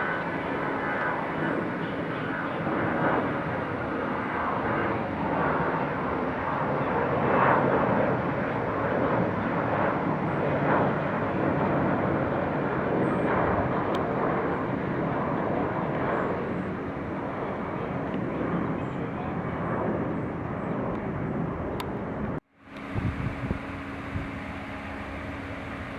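Jet airliner engines on departure: a loud, continuous roar that swells to a peak and then slowly eases off. The roar breaks off suddenly near the end, and a steadier hum follows.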